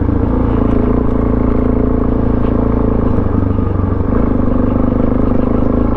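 Suzuki DR-Z400SM's single-cylinder four-stroke engine, fitted with a Yoshimura exhaust, running at steady, even low revs under way.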